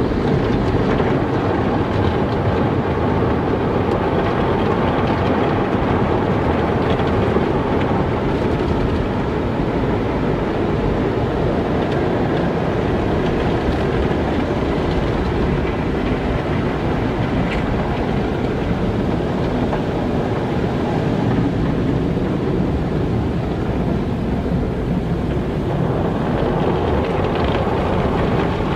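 Car wash running: a steady, even rush of noise from the wash machinery and water.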